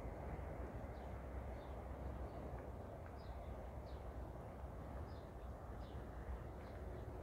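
Birds chirping, short high calls about once or twice a second, over a steady low rumble of outdoor background noise.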